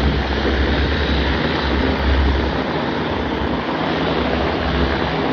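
Aircraft at a flying display, a steady rushing engine noise, with low rumbling that fades about halfway through and comes back near the end.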